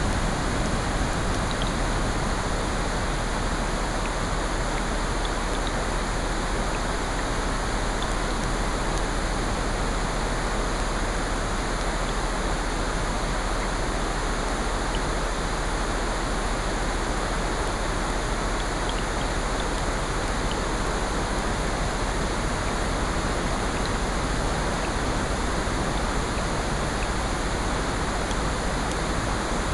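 Steady rushing noise of rain and ocean surf layered together as a sleep soundscape, with faint scattered ticks over it.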